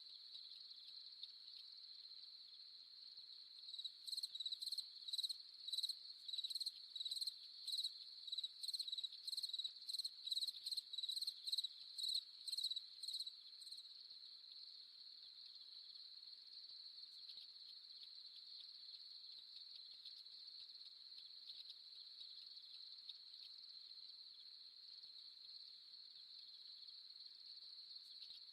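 Night cricket chorus: a steady, high continuous trill, with a louder chirping joining about four seconds in at roughly two chirps a second and stopping about halfway through.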